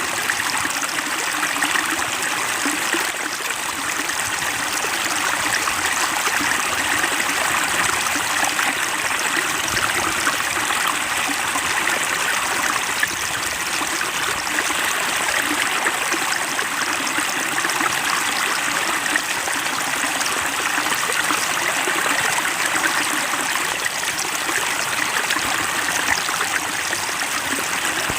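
Water trickling and splashing steadily into a small fish pond, an even, unbroken babble.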